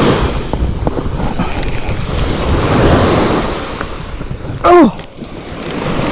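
Surf washing onto a beach, with wind buffeting the microphone. A short, arched, pitched cry cuts through about three-quarters of the way in.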